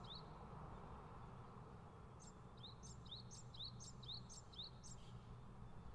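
Near silence with faint bird chirping: a run of short rising chirps, about two a second, beginning about two seconds in, over a low background hiss.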